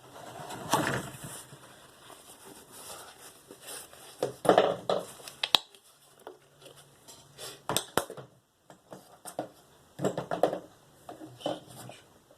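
Irregular clatter, knocks and rubbing as sharpening stones and a knife are handled and set down, with a few sharp clicks, while a DMT Diafold is swapped for a Spyderco 302M medium ceramic bench stone.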